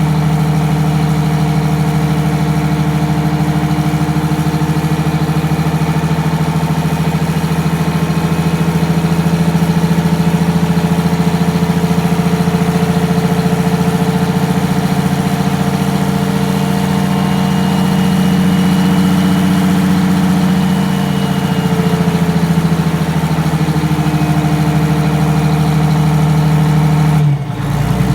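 Detroit Diesel 6V92TA two-stroke turbocharged V6 diesel in a GM 4106 bus idling steadily after a cold start, running smoothly without rough running. Its speed rises a little past halfway and settles again, and a sudden brief break in the sound comes about a second before the end.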